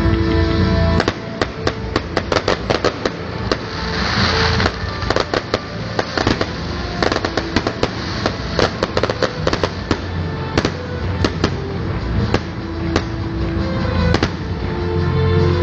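Fireworks display: a rapid run of bangs and crackling reports, with a burst of hissing crackle about four seconds in, and music playing underneath.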